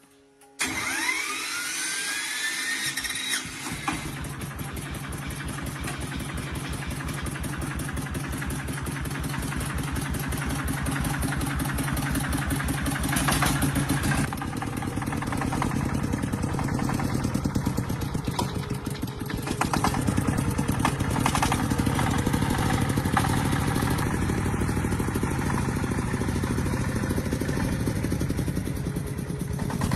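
Truck engine cranked over by its starter with a rising whine, catching about three seconds in. It then runs with a rapid, even firing beat, getting a little louder partway through.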